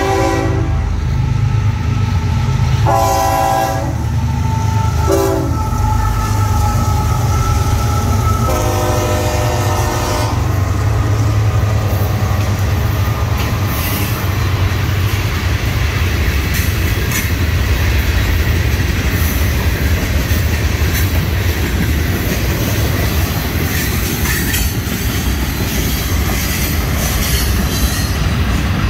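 Florida East Coast Railway freight train's locomotive horn sounding the grade-crossing signal in the first ten seconds: long, long, short, long. Then the train runs by with a steady rumble and the clatter of hopper-car wheels over the rails.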